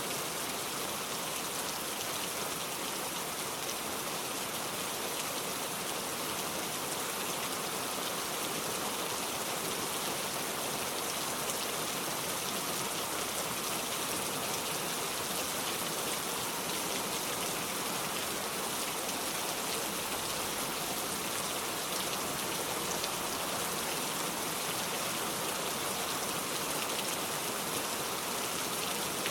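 Steady rain falling, a continuous even patter of raindrops with no change in strength.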